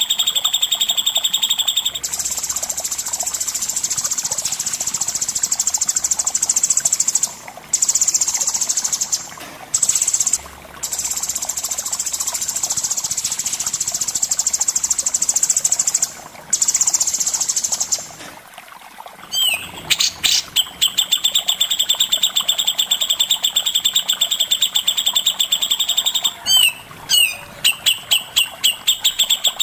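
Songbird singing a long, high, buzzy trill that breaks off briefly a few times, then, about two-thirds of the way through, switching to a fast run of sharp repeated notes.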